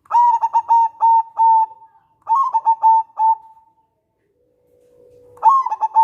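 Zebra dove (local perkutut) cooing: three phrases of quick staccato coos. The last phrase, near the end, opens with a long low note.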